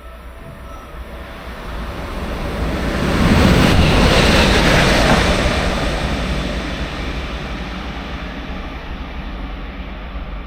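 A train passing through at speed: a rumbling rush that builds, is loudest about three to five seconds in, then slowly fades as it moves away.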